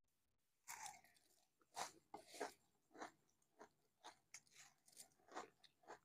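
Faint crunching and chewing of crisp fried chops (banana-flower and fish fritters): a string of short, irregular crunches about twice a second, starting just under a second in.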